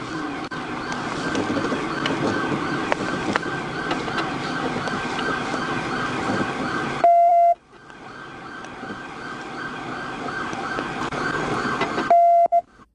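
Police car siren sounding over heavy road and engine noise, with a short, loud steady beep about seven seconds in and again near the end.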